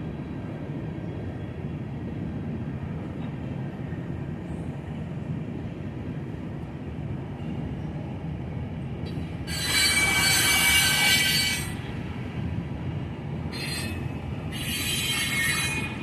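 Freight train rolling past with a steady low rumble. About ten seconds in, a tank car's wheels squeal loudly with high ringing tones for about two seconds, then squeal again twice, more briefly, near the end.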